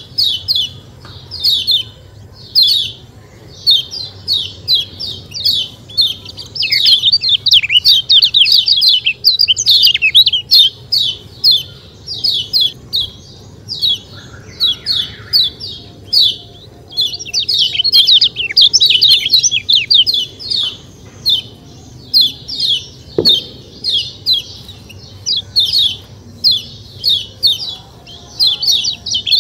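Lemon-bellied white-eye (kecial kuning) calling: quick series of high, sharp falling 'ciak' chirps, bunched in rapid clusters with short gaps between them.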